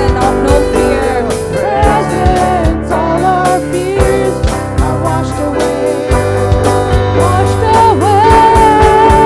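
Worship band playing a contemporary worship song: drums, bass and keyboard chords under a sliding melodic line. Near the end a single high note is held out.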